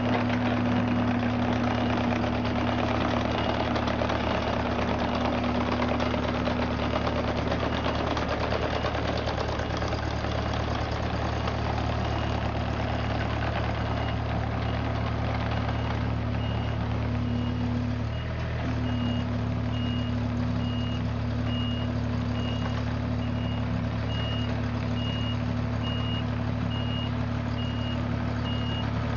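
An engine running steadily at constant speed. About twelve seconds in, a repeating high warning beep joins it.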